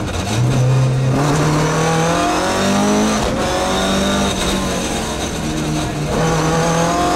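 Rally car engine heard from inside the cockpit, revving hard along a stage; the pitch climbs, drops briefly about three seconds in and again near six seconds, then climbs again.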